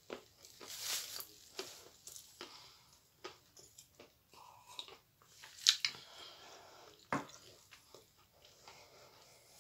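Close-up crunching and chewing of a dry chunk of edible clay, with many short crisp bites and mouth clicks. About four seconds in there is a drink of water from a glass.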